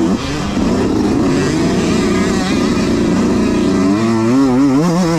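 Dirt bike engines racing, revving up and down; about four seconds in, one bike's engine note comes up loud and swings quickly up and down in pitch as the throttle is worked.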